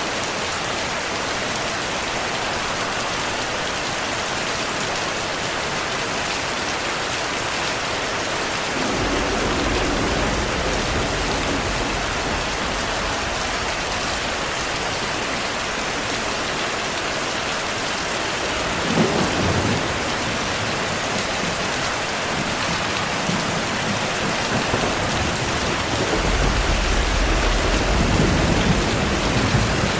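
Steady heavy rain with thunder. A low rumble comes about nine seconds in, a sharper clap near twenty seconds, and a longer rumble in the last few seconds.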